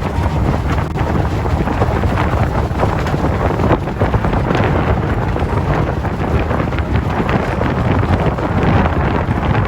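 Strong wind buffeting the microphone on a moving motorboat, a steady rushing noise with a heavy low rumble.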